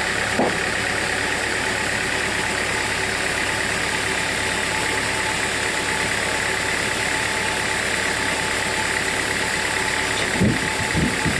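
Sawmill machinery running steadily, a constant mechanical hum with a steady high whine, with a few dull knocks near the end.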